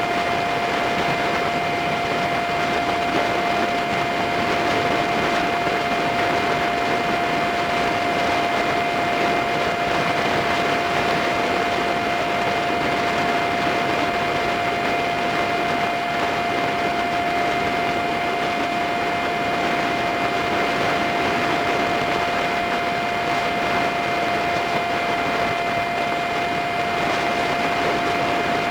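Steady rushing wind and road noise with a constant whine, from a dashcam riding on a Honda Super Cub 50 moped in the video's five-times fast-forward.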